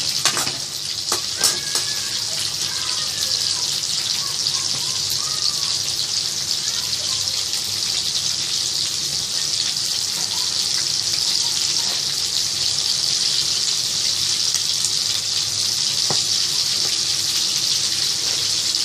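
Coated prawns deep-frying in hot oil in a kadhai, a steady sizzle, with a few clicks of a spatula against the pan in the first second or two.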